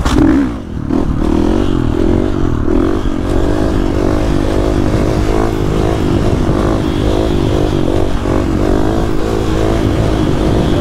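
Supermoto motorcycle engine, its revs dropping sharply in the first half second, then running under steady throttle with the revs wavering up and down.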